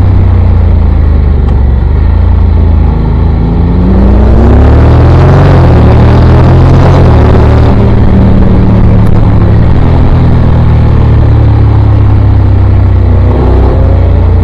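Motorcycle engine running at speed under a heavy low rumble. Its pitch rises as it accelerates about four seconds in, and again near the end.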